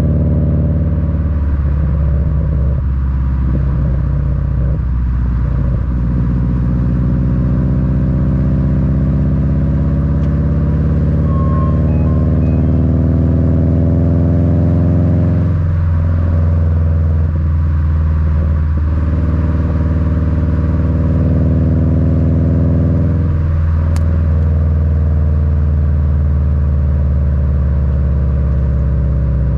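Subaru WRX's turbocharged EJ255 flat-four rumbling through an Invidia N1 cat-back exhaust, heard at the rear bumper while driving. The revs rise and fall as the car pulls through the gears, with several brief breaks at gear changes and a single sharp click late on.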